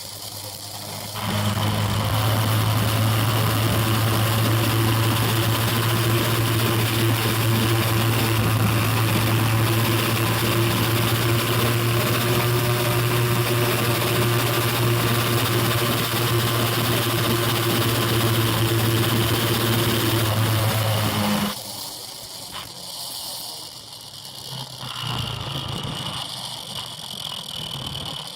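Motorbike engine running at a steady pitch with a broad rushing noise over it. It comes in about a second in, holds evenly for about twenty seconds, then drops away abruptly near the end.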